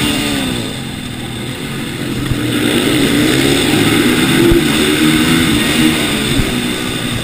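TM supermoto motorcycle engine heard onboard from the rider's helmet camera, the revs dropping off in the first second or so, then climbing again as the bike accelerates, and rising and falling with the throttle through the rest.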